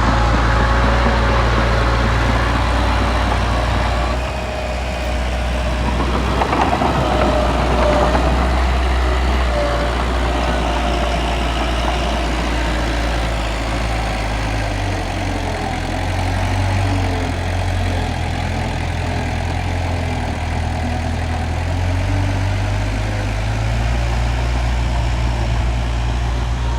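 Diesel engine of heavy earthmoving machinery running continuously: a deep drone that shifts in strength every few seconds as the load changes, with fainter higher whines over it.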